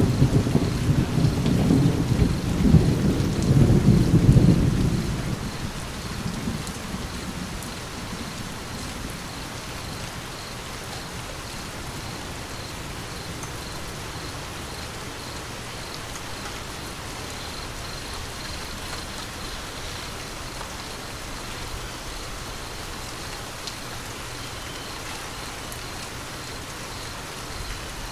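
Steady rain falling, with a loud low roll of thunder at the start that rumbles for about five seconds and fades away, leaving the rain alone.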